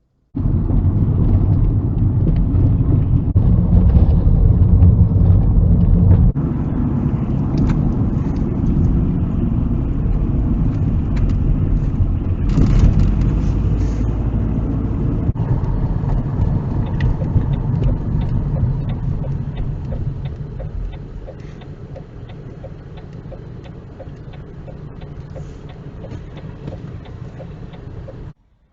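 Car driving on the road, heard through a dash cam inside the cabin: steady engine and tyre rumble with road noise. The sound changes abruptly twice, and it gets quieter about two-thirds of the way through.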